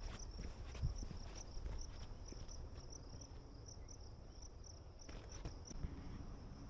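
Insects chirping in a steady high-pitched pulsing trill, about three pulses a second, with a few footsteps on the trail and a low rumble underneath.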